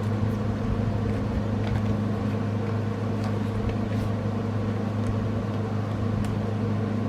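Steady low machine hum in the room, unchanging, with a few faint light ticks over it.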